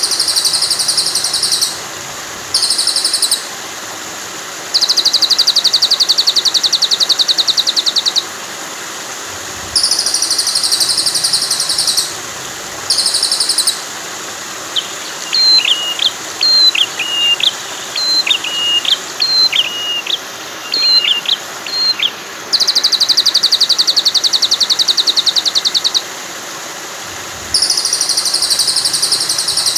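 Bird-song training recording of songbirds over running water: fast, buzzy high trills repeated in bursts of one to three seconds, with a run of short whistled notes sliding up and down in the middle, all over a steady hiss of flowing water.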